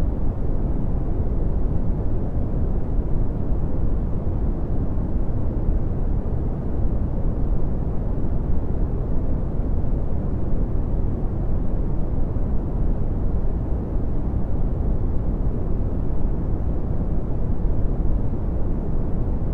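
Steady red (Brownian) noise: an even, unchanging rumbling hiss, heaviest in the low end and fading away toward the highs.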